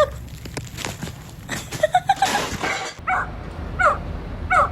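Dog yipping: short calls that fall quickly in pitch, the clearest two near the end.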